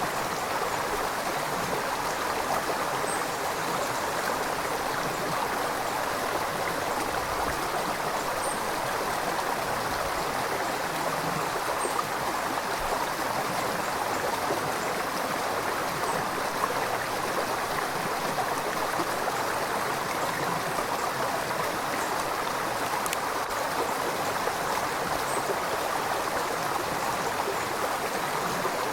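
River water flowing and babbling over rocks in a steady, unbroken rush.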